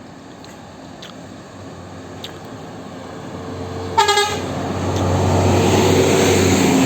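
A heavy road vehicle approaching, its engine growing steadily louder. About four seconds in it gives one short toot of its horn, and then its engine and tyres are loud as it draws close.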